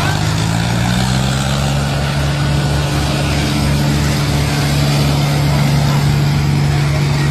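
Tractor engine running, its pitch rising a little over the first two seconds and then holding steady, with a regular low pulsing beneath.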